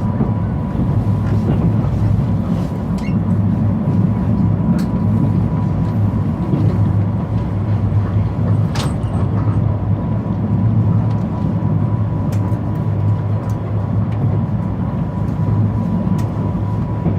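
Mugunghwa passenger train running past as it departs, a steady loud low rumble with scattered sharp clicks, one standing out about nine seconds in. A faint steady high tone sits under the rumble throughout.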